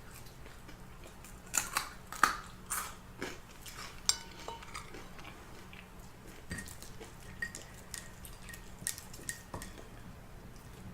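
Eating at a table: a string of sharp clicks and clinks of utensils and dishes with chewing, busiest in the first few seconds and sparser after.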